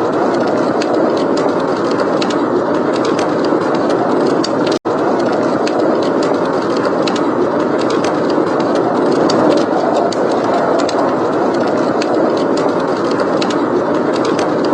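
Steady blizzard wind blowing, overlaid with a wood fire crackling in a fireplace with many small sharp pops. The sound cuts out for an instant just under five seconds in.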